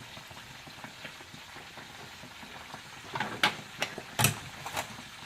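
Chicken breasts frying in a pan, a steady sizzle. About three seconds in come several sharp clinks and knocks of kitchen utensils.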